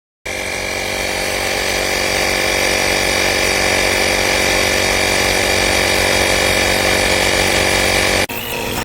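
Portable 12 V electric tyre inflator's compressor running, a loud steady motor-and-piston buzz with a high whine in it that starts suddenly. It changes briefly near the end and then cuts off.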